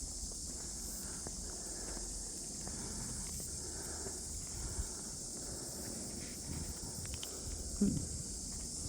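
Footsteps of a person walking, faint irregular steps over a steady high hiss, with a short low pitched sound sliding down near the end.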